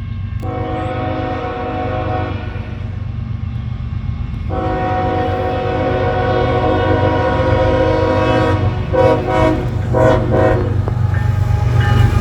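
CSX freight locomotive's air horn sounding a long blast, then a second long blast, then several short taps, over the low rumble of the approaching train, which grows louder toward the end.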